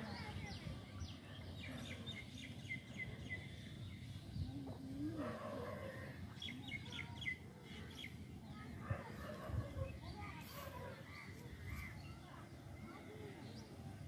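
Small birds chirping in quick runs of short notes over a steady low outdoor rumble, with a few sharp clicks near the middle.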